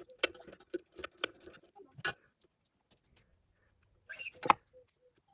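Scattered metal clicks and clinks of hand tools and parts being worked on a Massey Ferguson 204 forklift's steering assembly. One clink about two seconds in rings briefly, and the sharpest click comes near the end.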